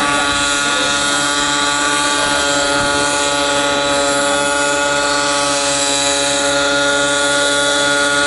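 Large radio-controlled helicopter lifting a heavy camera, its rotor and drive running at one steady pitch: a sustained hum made of many even overtones.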